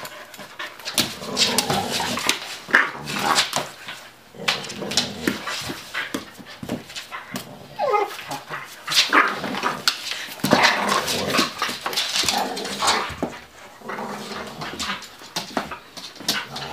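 Two pit bulls play-fighting, barking, yipping and whimpering amid scuffling knocks, with a falling whine about eight seconds in.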